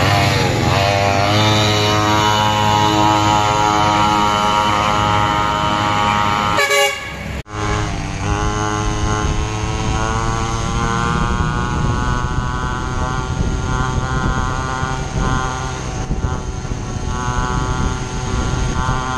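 A homemade mini bike's 49cc two-stroke engine revving up and running at high revs under way. About seven seconds in the sound breaks off briefly, then the engine climbs in pitch again and holds high, wavering a little.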